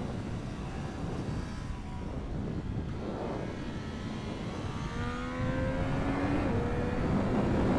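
Triumph Street Triple 765 RS inline-three engine under way with wind rush. About three seconds in it starts pulling hard: the engine note climbs, drops back as it shifts up, and climbs again, getting louder toward the end.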